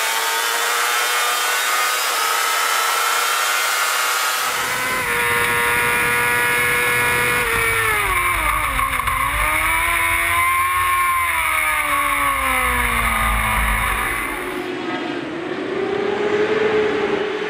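Racing motorcycle engines running at high revs on a circuit, heard across several cut-together shots. Around the middle, one engine's note drops and then climbs back as the bike slows and accelerates again. Near the end another engine note rises and then falls away.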